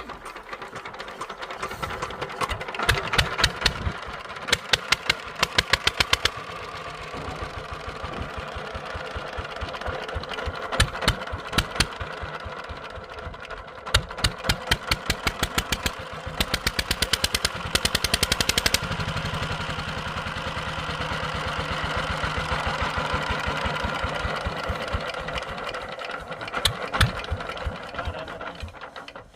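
Old Petter diesel engine running with a steady rhythmic firing beat, broken by runs of loud sharp knocks several times.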